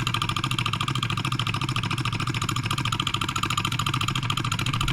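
Wilkemp Jr. Model E solenoid engine running steadily: a fast, even rhythm of reciprocating strokes as the solenoid electromagnet drives the piston and flywheel. It is running really well, though not very well balanced and shaking a little.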